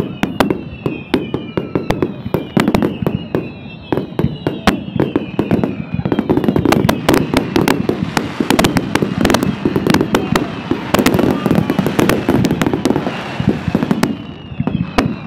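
Fireworks finale: rapid, overlapping bangs of aerial shells with crackle, thickening into an almost continuous barrage in the middle. A high falling whistle repeats about twice a second through the first few seconds and again near the end.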